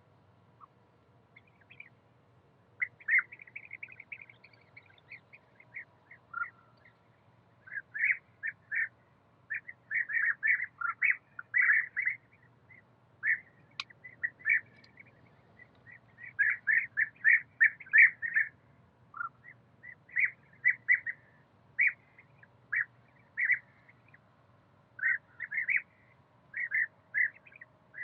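A bird chirping: short, high calls given in quick runs of several at a time, with brief pauses between runs.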